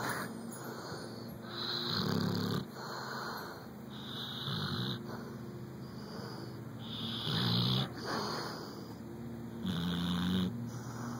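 Chocolate Labrador snoring in its sleep, a slow, regular rasping snore on each breath, about one every two to three seconds.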